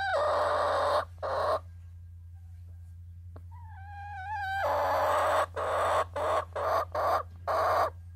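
Domestic hens calling: loud, rough squawks at the start and again from about five seconds in, the later ones breaking into a run of short bursts. A brief drawn-out pitched call comes about four seconds in, and a steady low hum runs underneath.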